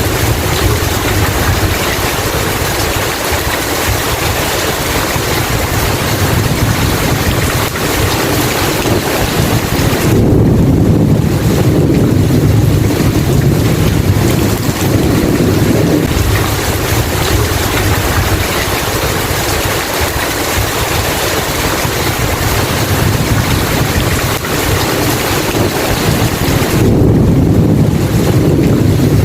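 Steady heavy rain with rolling thunder; deep rumbles swell up about ten seconds in and again near the end.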